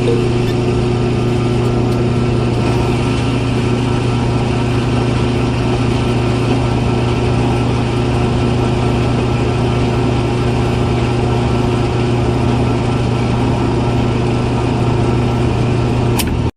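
Small motor of a homemade mini rice mill running steadily with an even hum.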